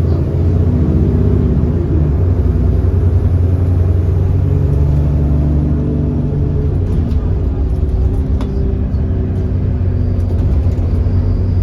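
The 6.7-litre Cummins ISB diesel engine of an Alexander Dennis Enviro400 bus, which has an exhaust leak, running under power. The engine note rises over the first second or two, then holds fairly steady.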